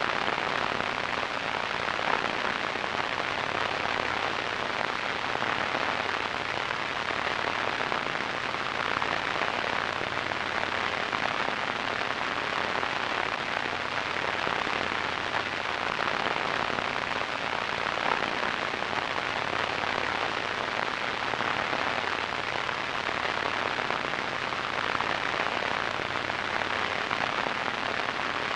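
Radio static: a steady hiss of noise, strongest in the middle and upper range with a faint crackle, unchanging throughout.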